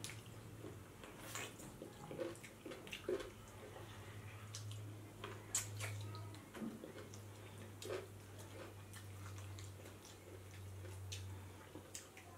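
Wet chewing and mouth smacks of two people eating rice and curry by hand, heard as short, irregular clicks and squelches over a faint steady low hum.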